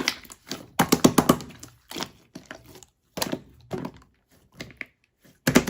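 Clear slime being squeezed and pressed by hand, giving sharp pops and clicks in quick clusters with short pauses between them.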